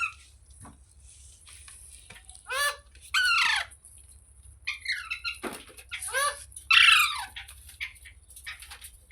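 Green parrot giving a series of harsh screeching calls, several falling in pitch, the loudest about three and seven seconds in.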